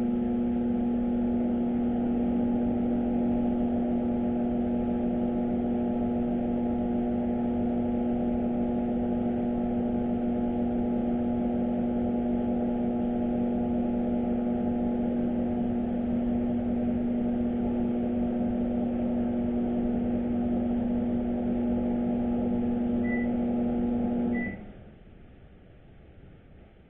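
Microwave oven running on a 30-second cycle, its high-voltage transformer giving a loud, steady hum. The noise is a sign of the fault the repairer traces to a damaged magnetron. Near the end the hum cuts off suddenly with a short beep.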